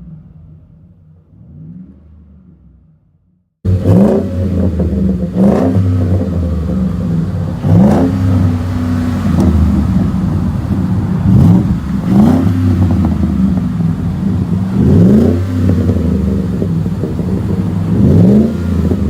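Ford F-150's 5.0 V8 through a Flo-Pro Max stainless split dual exhaust, blipped from idle again and again, each rev rising and falling back, about every two to three seconds. The revs are quieter at first, then about three and a half seconds in the sound turns suddenly much louder.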